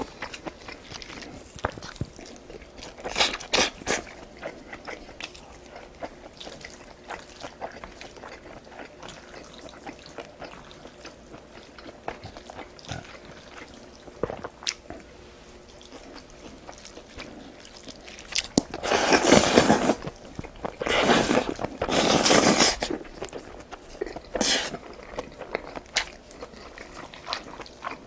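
Close-miked chewing and biting of food, with many small wet mouth clicks and smacks. Two louder noisy stretches of a second or two each come about two-thirds of the way in.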